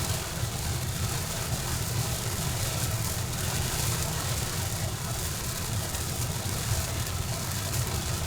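Steady rain falling hard, an even hiss with a continuous low rumble underneath.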